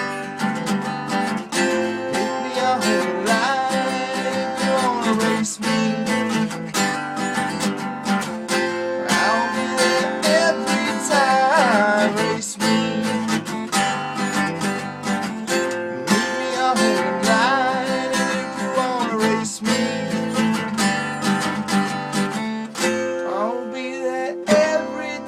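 Instrumental break of a country-style song: strummed acoustic guitar chords under a melody line with sliding, bending notes.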